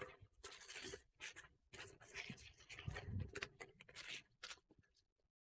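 Parcel packaging being opened and handled by hand: irregular rustling and crinkling, with a soft thump about three seconds in.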